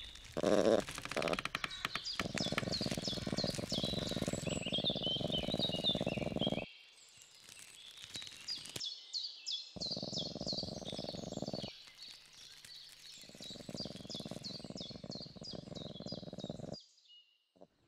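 Songbirds singing, with many short chirps that fall in pitch in quick series. Under them runs a low rushing noise that starts and stops abruptly several times and drops out just before the end.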